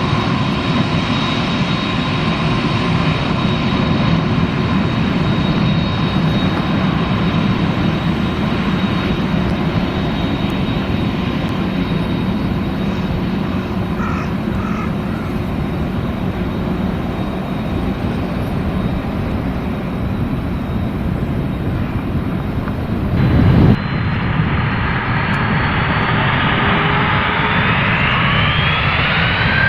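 Boeing 767-300ER's twin turbofan engines running with a steady whine. About two-thirds of the way through there is an abrupt break, after which the whine rises steadily in pitch as the engines spool up toward takeoff thrust.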